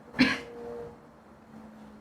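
A single short cough, about a quarter of a second in.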